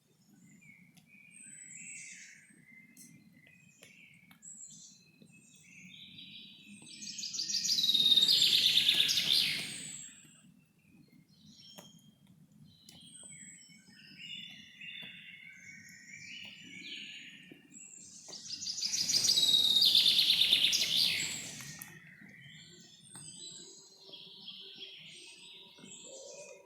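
Forest birds chirping and singing in short scattered calls over a faint steady background. Two much louder sounds, each about three seconds long, swell and fade about eight and nineteen seconds in.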